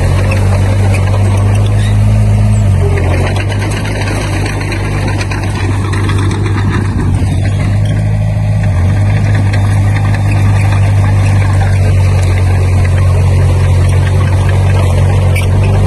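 Komatsu D20P bulldozer's diesel engine running steadily and loud, its note changing a little about three seconds in and again near nine seconds.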